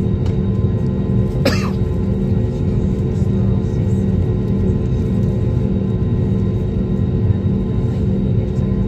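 Steady drone of an airliner's engines heard inside the passenger cabin in flight: a low rumble with several steady humming tones over it. A brief sharp sound cuts through about a second and a half in.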